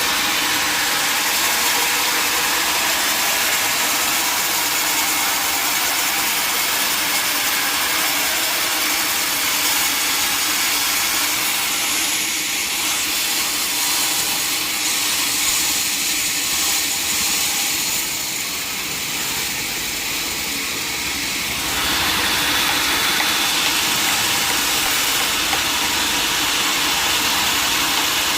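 Sawmill saw running with a steady, hissing machine noise. It eases briefly about two thirds of the way through, then picks up again.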